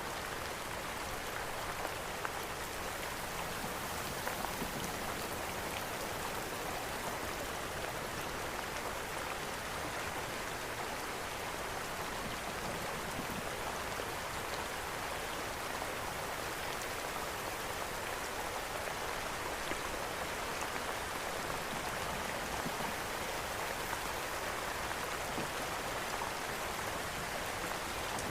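Steady rain falling, mixed with a fireplace burning, which gives a few small crackling pops over the even hiss of the rain.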